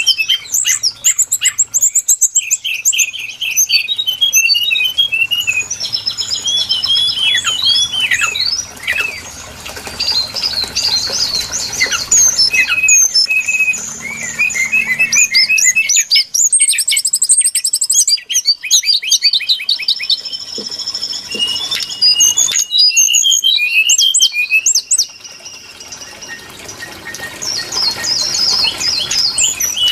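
Brown-chested jungle flycatcher lure recording: a rapid, varied run of high whistles, trills and chattering notes, broken by a few short pauses.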